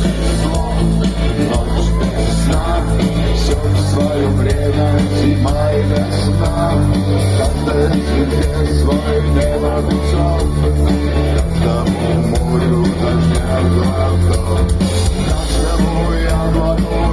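Live rock band playing an instrumental passage through a concert PA: electric guitar over sustained bass notes that change every few seconds.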